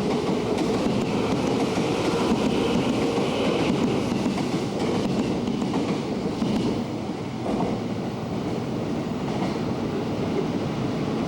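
A JR commuter electric train running at a station platform: a steady rumble of wheels on rails that eases a little about seven seconds in.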